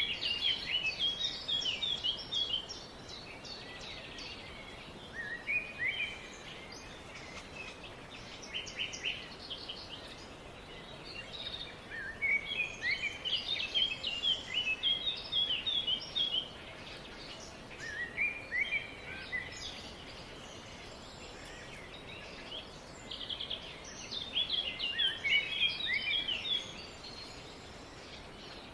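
Songbirds singing in the forest: about six bursts of quick, high chirping phrases a few seconds apart, over a steady background hiss.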